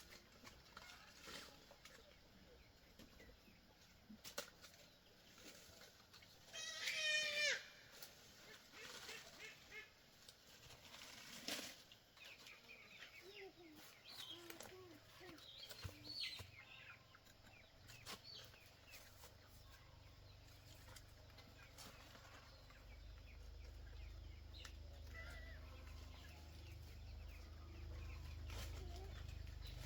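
Chickens clucking faintly, with one louder, drawn-out call about seven seconds in. A low rumble builds through the second half.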